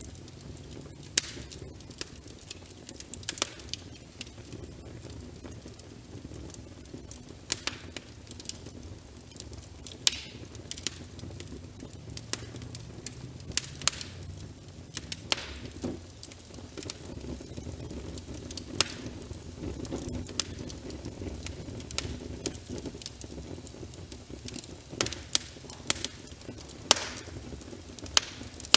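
Wood fire crackling in a fireplace, with frequent sharp pops and snaps over a steady bed of rain.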